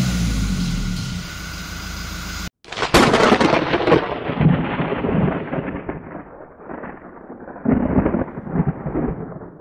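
Toyota Innova Reborn turbodiesel engine running, heard from inside the cabin, until it cuts off about two and a half seconds in. A sudden loud thunder-like rumble then starts, fades, and swells up again near the end.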